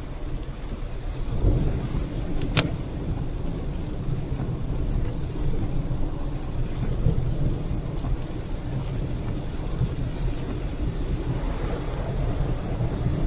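A car driving on a highway in the rain: a steady low rumble of road and rain noise, with one brief sharp click about two and a half seconds in.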